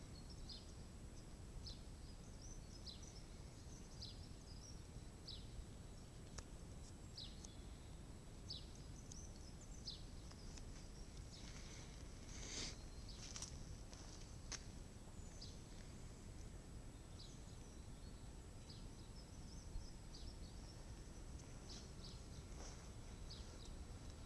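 Quiet outdoor background hum with a bird repeating a short, high, falling chirp about once a second. There is a brief rustle and a few clicks about halfway through.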